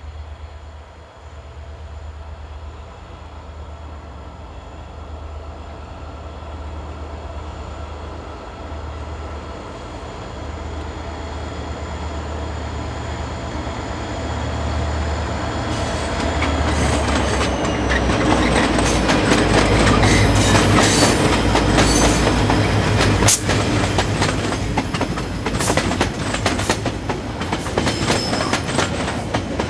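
A train approaching and passing close by: a low steady drone grows louder, then from about halfway through the wheels clatter over the rail joints with some squeal, loudest a few seconds later.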